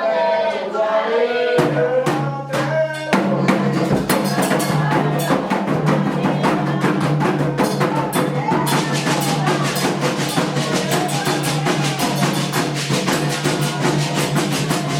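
Candomblé drumming: a percussion ensemble plays a fast, dense rhythm over a steady low drone. Singing is heard in the first few seconds before the drums take over, with faint singing again later.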